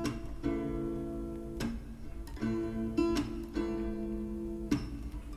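Background music: chords strummed on an acoustic guitar, a new strum roughly every second, ringing on between strums, in an instrumental gap between the song's sung lines.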